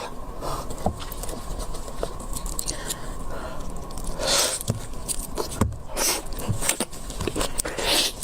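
Close-miked eating sounds: biting and chewing seafood, with many small sharp clicks and crunches and a few short hissing bursts, about four, six and eight seconds in.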